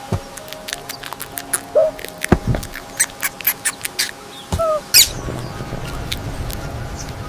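Cartoon sound effects: a quick series of clicks and knocks with a few short high squeaks, then a steady low rumble sets in about five seconds in.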